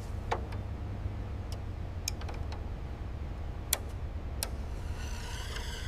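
A few sharp, irregular metallic clicks and taps from hand work on a car door hinge, over a steady low hum. Near the end a wavering high-pitched sound comes in.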